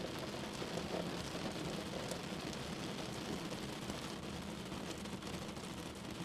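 Steady rain on a window pane: an even hiss with scattered faint ticks of single drops.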